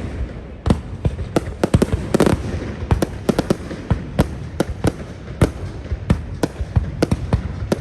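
Fireworks display: a fast, irregular string of sharp bangs, several a second, over a continuous rumble of further bursts.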